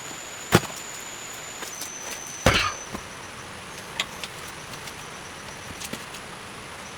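Two sharp chopping blows on wood about two seconds apart, the second one longer, followed by a few lighter knocks.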